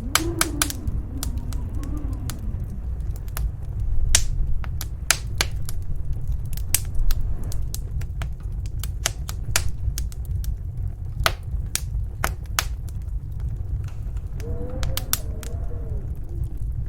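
Wood fire crackling in a fireplace, with sharp irregular pops and snaps, over the steady low rumble of a snowstorm's wind. A howling gust wavers up and down in pitch near the end.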